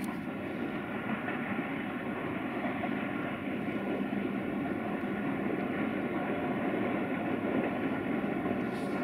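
Distant electric freight train rolling along with loaded pipe wagons, hauled by a 060-EA (LE 5100 kW) locomotive: a steady rumble of wheels and wagons with a faint steady hum, rising slightly in level.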